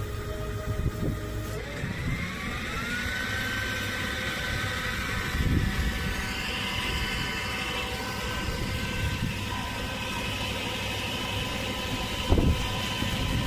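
Flatbed tow truck's engine running. It speeds up about two seconds in, rising in pitch, and then holds a steady higher speed, with two short knocks along the way.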